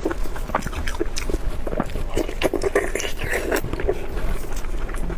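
Close-miked chewing of soft blood sausage: a dense run of wet mouth smacks and small clicks.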